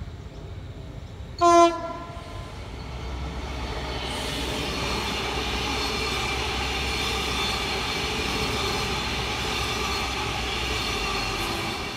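A train horn gives one short, loud blast about one and a half seconds in. Then a train runs past with a low rumble and a steady high whine of several tones, which fades near the end.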